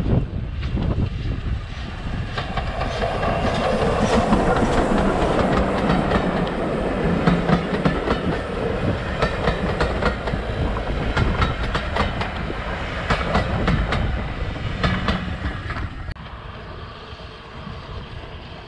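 Train passing, its wheels clacking over rail joints in a quick run of clicks over a steady rumble. The sound swells over the first few seconds and falls away about sixteen seconds in.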